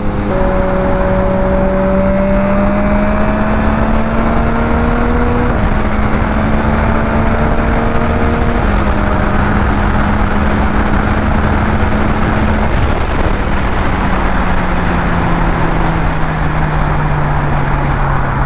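2021 Yamaha MT-09's inline three-cylinder engine pulling hard at high speed, its pitch stepping down twice at upshifts about five and nine seconds in, then falling steadily as the throttle rolls off near the end. Heavy wind rush on the microphone grows with the speed.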